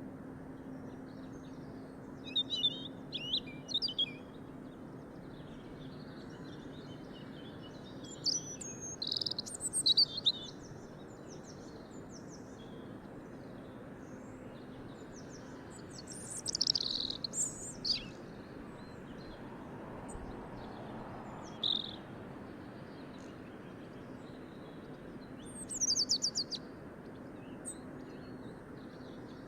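Birds chirping and singing in short bursts every few seconds over a steady low hiss.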